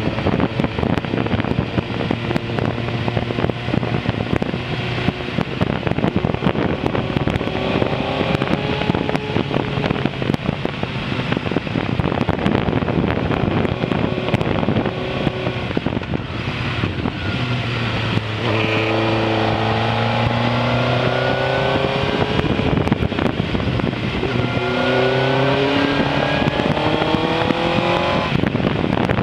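Suzuki GSX-R 600 inline-four engine running on the move over a steady rush of wind and road noise. It pulls twice through rising revs in the second half.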